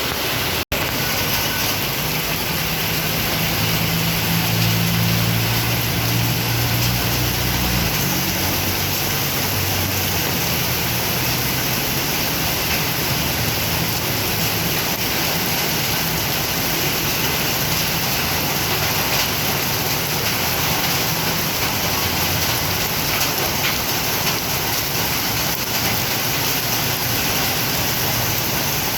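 Heavy rain falling as a steady hiss. A motor vehicle's engine rumbles past from about two seconds in until about eight seconds in.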